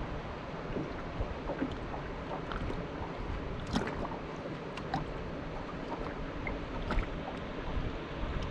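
Lake water lapping against the hull of a small boat, with short scattered splashes and ticks.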